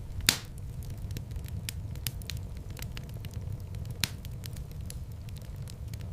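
Wood fire in a fireplace crackling over a steady low rumble of flames, with a loud pop just after the start and another sharp pop about four seconds in.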